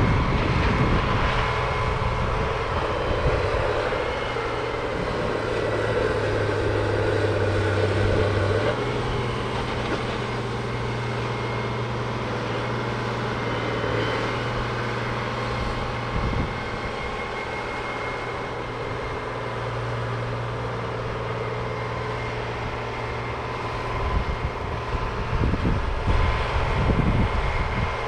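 Heavy farm machinery's engine running steadily under load, its pitch shifting slightly about eight seconds in, growing rougher and louder near the end.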